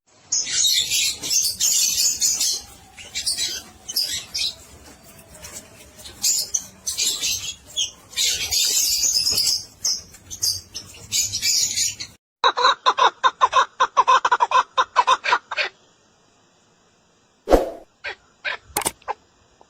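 Songbird calls: a dense run of high, quick chirps and trills for about twelve seconds, then a different bird giving a fast, even series of lower repeated notes for about three seconds. Near the end it falls quiet apart from a couple of short clicks.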